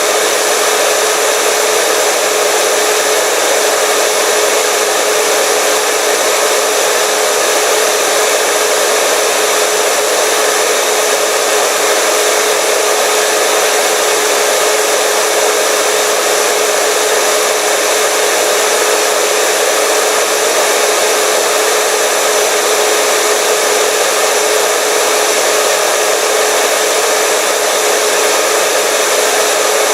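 Hair dryer running steadily: a loud, even rush of air with a constant motor hum, unchanging throughout.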